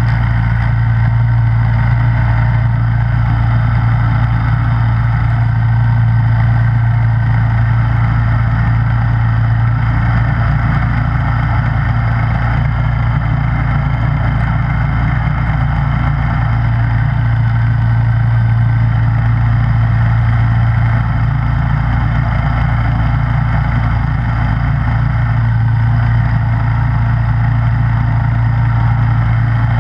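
Snowblower engine running steadily at a constant speed, a loud, even hum with no change in pitch.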